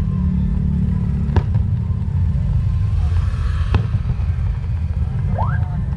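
Fireworks going off: two sharp bangs about two seconds apart over a steady low rumble.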